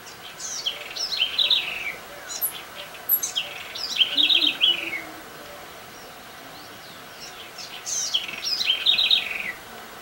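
A songbird singing three short phrases, each a quick run of high notes falling in pitch, with a longer pause before the last one.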